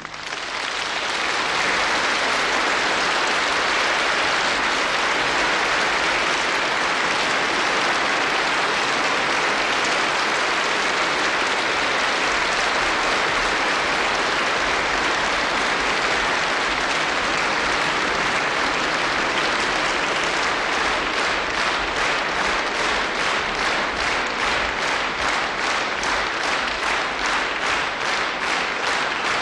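Concert audience applauding. About two-thirds of the way through, the clapping falls into step as rhythmic unison clapping at about two claps a second.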